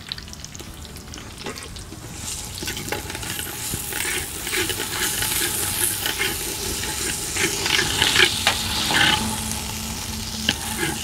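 Ground spice-and-chilli paste frying in hot oil in a clay pot. It sizzles while a spoon stirs and scrapes it, and the sizzle grows louder about two seconds in.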